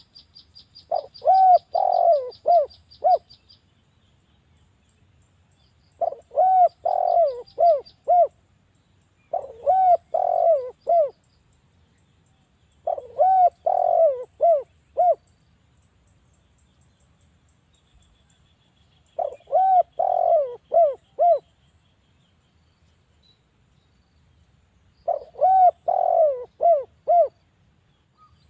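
Spotted dove (derkuku) cooing in six phrases of four or five notes each, with pauses between phrases. A small bird's rapid high trill sounds faintly near the start and again about seven seconds in.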